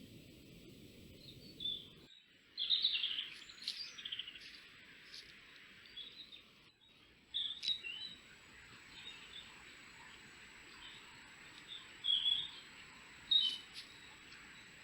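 Small birds calling in short bits of chirping, loudest a few seconds in and again twice near the end, over a steady background hiss.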